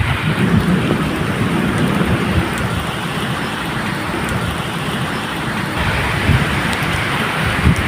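Medium rain falling steadily, with a low, uneven rumble of thunder underneath.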